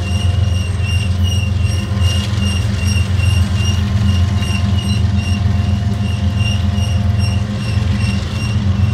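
Steady low rumble of a Ferrosur diesel freight train running alongside, with a high, evenly pulsing beep repeating about four times a second over it.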